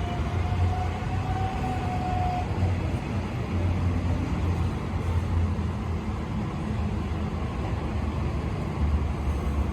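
Electric suburban train moving along the platform, a steady rumble of wheels on rail with a faint, slightly rising motor whine in the first couple of seconds.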